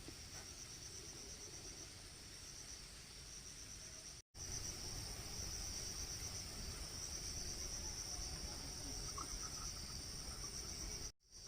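A steady, high-pitched, rapidly pulsing chorus of insects over a low background rumble. It drops out briefly twice, about four seconds in and near the end.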